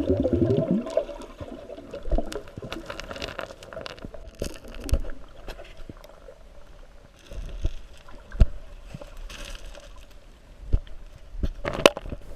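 Creek water sloshing and gurgling, with scattered knocks and scrapes from handling in and around the water.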